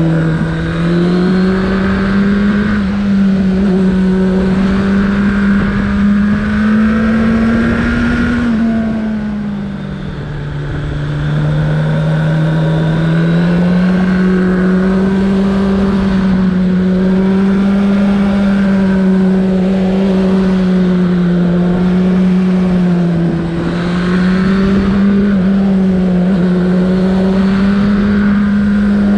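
Suzuki Bandit 1200's air/oil-cooled inline-four engine running steadily under way, with a low rushing noise underneath. About nine seconds in the engine note drops in pitch and loudness, then rises back over the next few seconds.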